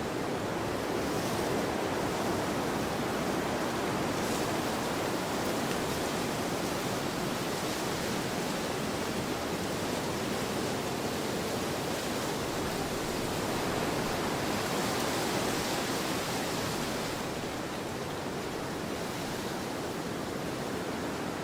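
Wind blowing across an open field: a steady rushing that swells and eases in gusts, a little softer near the end.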